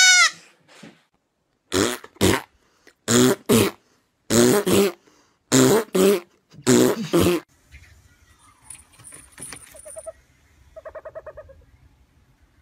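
A small dog giving short barks in quick pairs, five pairs over about six seconds. Near the end comes a much quieter, rapidly pulsed call.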